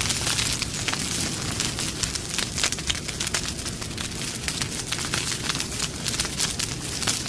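Wood campfire crackling: frequent, irregular sharp pops and snaps over a steady hiss of burning.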